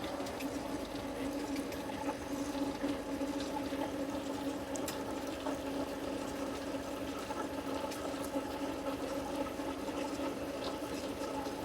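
Metal lathe running steadily with an even hum, with faint ticks now and then.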